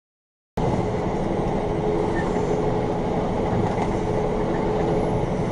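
After about half a second of dead silence, a steady, loud vehicle rumble starts abruptly, with a faint steady hum running through it.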